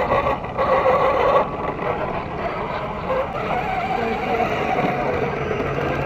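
Electric motors and gearboxes of RC crawler trucks whirring as they drive, louder in the first second or so, then a steadier hum.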